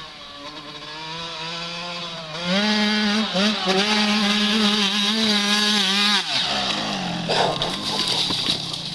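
Dirt bike engine revving up hard about two and a half seconds in as the bike climbs the hill, then held at high revs with small rises and dips. The throttle is shut off suddenly about six seconds in and the engine note falls away, with a short rough clatter about a second later.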